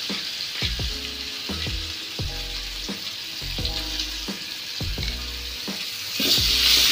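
Ground spice paste sizzling in hot oil in an aluminium wok, a steady hiss that grows louder about six seconds in as it is stirred with a ladle. Background music with a steady beat and bass line plays underneath.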